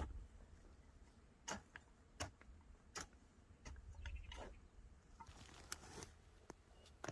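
Faint, scattered sharp clicks and light snaps, about nine in all, at irregular spacing, with soft rustling between them.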